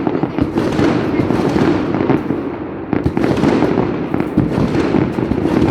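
Dense, continuous barrage of fireworks and firecrackers going off close by, many overlapping bangs and crackles with no pause between them.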